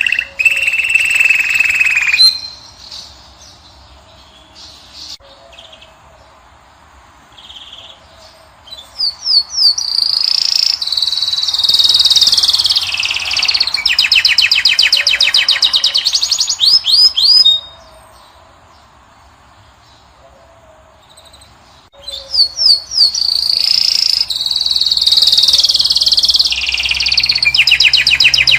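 European goldfinch singing in fast twittering phrases of rapid repeated notes and trills. A phrase ends about two seconds in, a long one follows after a pause of several seconds, and another starts again after a shorter pause.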